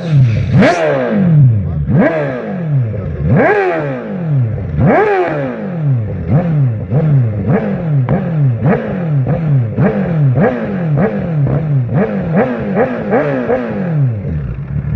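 A 1000 cc inline-four sportbike engine with an aftermarket exhaust, revved repeatedly from idle. First come a few big blips about a second and a half apart, then quicker, shorter blips about two a second, each falling back as the throttle closes. It settles toward idle near the end.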